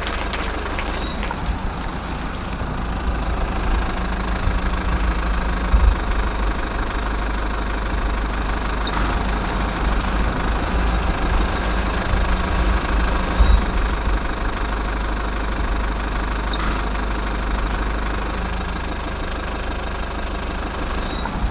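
A steady, low engine hum, with two dull thumps about six and thirteen seconds in.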